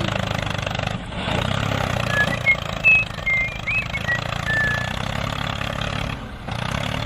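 Tractor engine running steadily, with a few short high chirps over it about two to five seconds in. The engine sound drops away briefly near the end.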